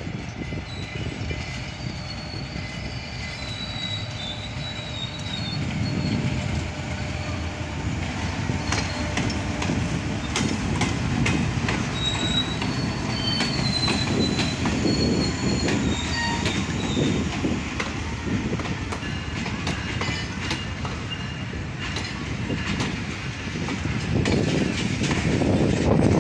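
Pakistan Railways GEU-40 diesel-electric locomotive and its passenger coaches rolling slowly past on arrival at a station. The wheels give high wavering squeals, and clicks come from the rail joints. The rumble grows louder as the locomotive and then the coaches go by.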